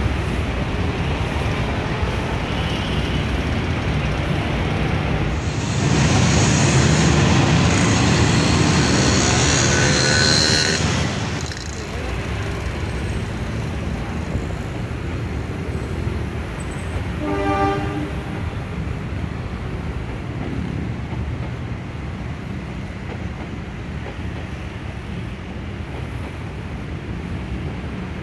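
Passenger train running across a concrete viaduct, a steady rumble mixed with road traffic. It swells loudest for about six seconds, from roughly six seconds in. A short single horn note sounds a little past the middle.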